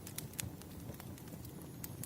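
Wood fire crackling: a few irregular sharp pops and snaps over a low, steady noise.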